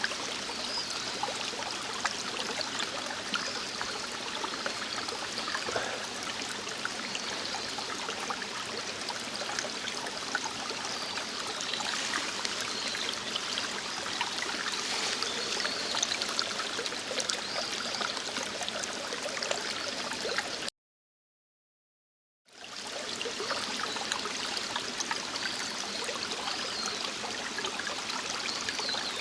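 Steady rushing and trickling of a stream. It cuts out completely for about two seconds past the two-thirds mark, then resumes.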